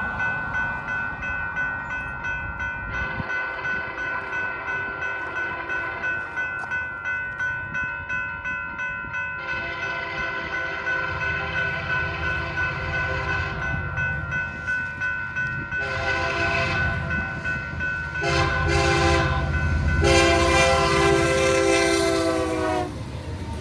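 Grade crossing bell ringing steadily while an approaching Union Pacific freight locomotive sounds its air horn in the crossing pattern: two long blasts, a short one and a long one, rising in loudness. A low rumble of the diesel locomotive builds under the horn.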